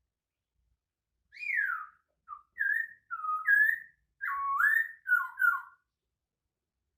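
Poksay Hongkong laughingthrush singing a short phrase of about eight clear whistled notes, some sliding down and some rising, in quick succession.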